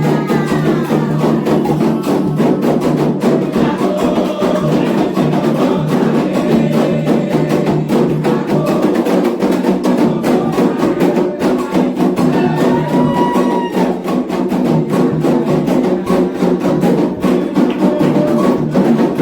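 Candomblé atabaque drums and a struck bell or stick beating a steady, dense rhythm, with voices singing in places.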